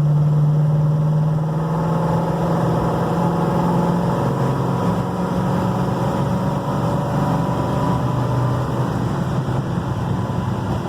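1969 Dodge Charger's 440 big-block V8 pulling hard under acceleration, heard from inside the car. Its note holds steady, then drops in pitch about halfway through before climbing again.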